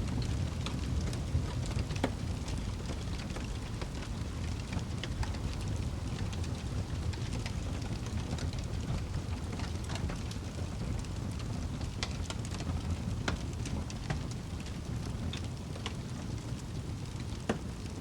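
Wood fire burning in a fireplace: a steady low rumble of the flames with frequent small crackles and pops scattered irregularly throughout.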